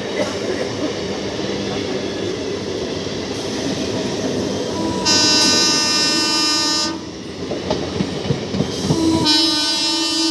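Indian Railways train running past with wheels clattering over the rail joints, sounding two long horn blasts, the first about five seconds in and the second about nine seconds in.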